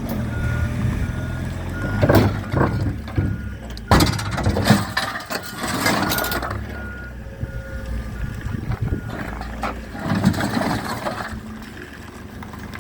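Forklift reversing alarm beeping in two spells over the forklift's running engine, with a few metallic clunks.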